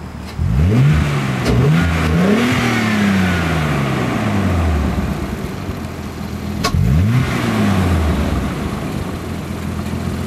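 Naturally aspirated Nissan 300ZX V6 through a Stillen cat-back exhaust, accelerating hard with the pitch climbing in three quick steps, then falling away as it lets off. About seven seconds in there is a second, shorter rise and fall in pitch.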